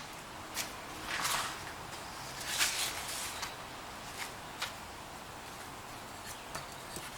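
Workbench handling noises: a few light clicks and two short rustling scrapes.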